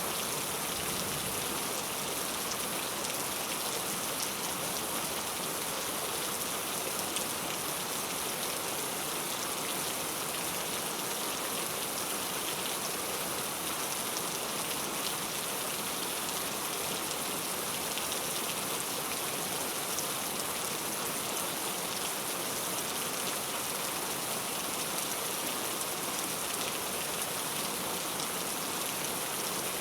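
Heavy rain falling steadily, a dense, even hiss with fine scattered drop patter.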